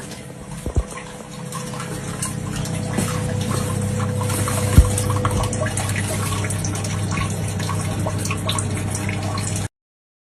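Water running, with many small clicks through it and one sharp thump about five seconds in; it cuts off suddenly near the end.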